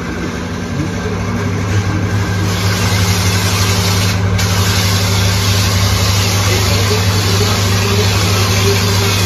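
High-pressure washer running steadily: the pump motor's hum under the hiss of the water jet spraying the bike.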